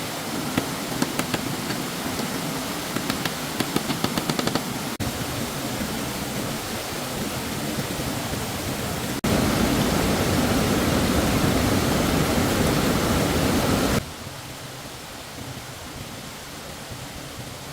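Stream water rushing steadily, with a run of light clicks or taps in the first four seconds or so. The water sound changes abruptly about five, nine and fourteen seconds in, and is loudest and fullest between nine and fourteen seconds.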